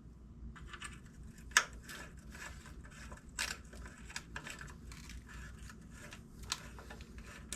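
Small metallic clicks, rattles and scrapes of bolts being handled and threaded in by hand, irregular throughout, with a sharper click about a second and a half in and another near three and a half seconds.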